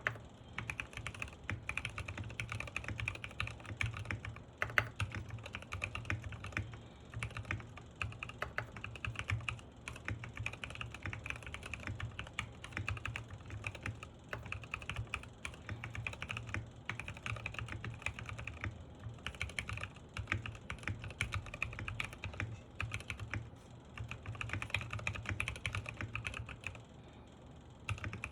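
Continuous fast typing on a Sky87 mechanical keyboard fitted with Gateron Pro Milky Yellow linear switches, keystrokes coming thick and irregular, with a brief pause near the end.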